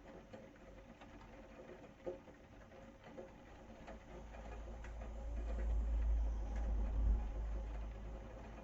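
Rain pattering, with many small scattered drips and ticks. A deep low rumble swells from about four seconds in, is loudest near seven seconds, then eases off.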